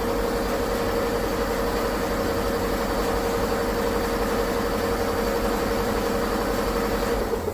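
A machine's motor running steadily with a constant hum, cutting off abruptly near the end.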